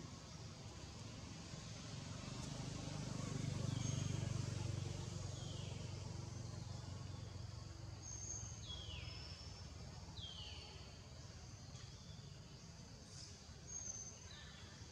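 Outdoor ambience of birds calling: several short high whistles and a few downward-sweeping chirps, over a low rumble that swells about four seconds in and then fades.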